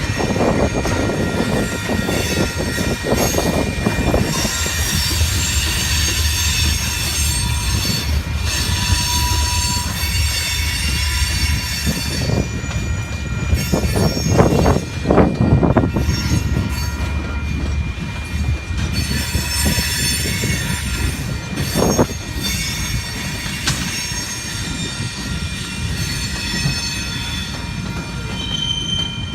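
Freight train rolling past, a steady low rumble with the thin, high squeal of steel wheels on the rails throughout. There are a few clanks and knocks about halfway through and again a little later.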